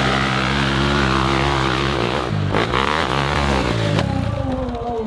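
Dirt bike engines running at steady revs, with abrupt changes in the sound partway through, then an engine's pitch falling as it revs down near the end.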